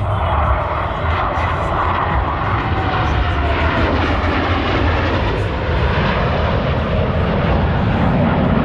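Steady, loud jet engine noise from a pair of Boeing F/A-18 Super Hornets, each with twin GE F414 turbofans, flying a slow pass with landing gear and hooks down, in carrier landing configuration.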